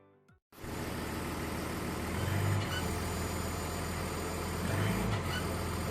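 Mazda CX-60 running with a steady low drone, swelling briefly twice, about two and a half seconds in and near the end, as the accelerator is pressed. This is the abnormal noise on acceleration that is traced to a faulty exhaust shutter valve.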